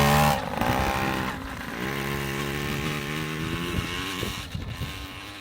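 Motorcycle engine running under throttle: the note is held high at first, cuts back about a third of a second in, picks up again around two seconds in, then fades toward the end.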